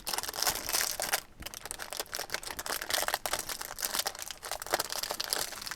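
Packaging on a trading-card hanger box being torn open, with the wrapper crinkling and tearing in a rapid, irregular crackle and a brief pause just after a second in.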